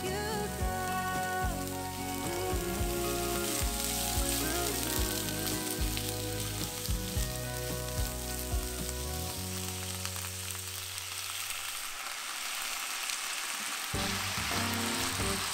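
Sliced pork and green onions sizzling in a hot frying pan as they are stir-fried with a wooden spatula. Soft background music runs underneath, drops out about ten seconds in, and comes back near the end.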